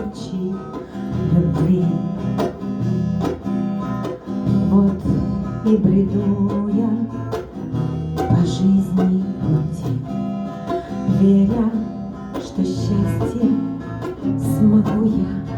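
Acoustic guitar strummed in a steady rhythm, accompanying a woman's song, with her singing voice at times.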